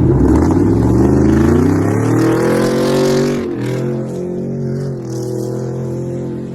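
Pickup truck engine revving up over the first second, holding the revs, then easing off about three and a half seconds in to a lower steady run.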